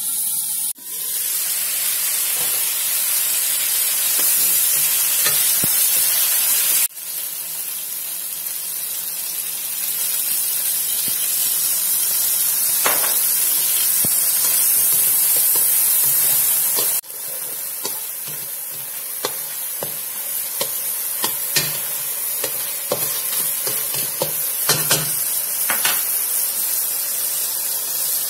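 Chicken pieces frying in hot oil in a pan, sizzling steadily, with scattered clicks in the second half as they are stirred.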